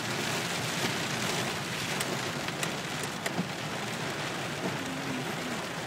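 Heavy rain drumming on a car's roof and windscreen, heard from inside the cabin as a dense, steady hiss with a few sharper drop hits about two to three seconds in.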